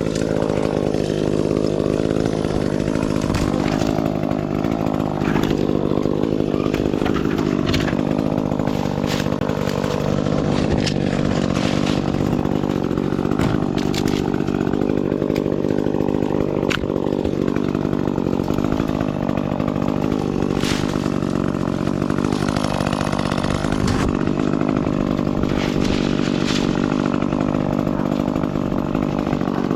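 Gasoline chainsaw running continuously through tree-removal work, its pitch dipping and recovering every few seconds as it bogs under load and frees up. Brief sharp clicks and snaps run throughout.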